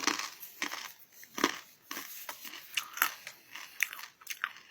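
Someone chewing a crunchy Japanese rice-cake snack, which is savoury and lightly sweet: a quick, irregular run of crisp crunches.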